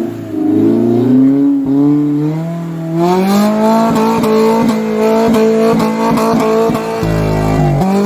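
Off-road 4WD engine revving hard under load while driving through a mud hole. The revs climb over the first few seconds, are held high with rapid short dips, ease off briefly near the end, then come back up.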